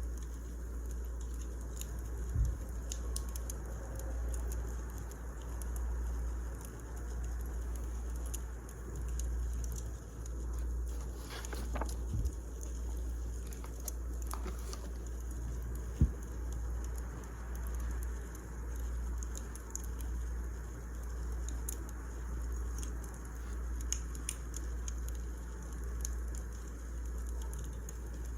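Wood fire crackling, with scattered small pops over a low rumble that swells and fades about every two seconds. A few louder knocks come through, the sharpest about sixteen seconds in.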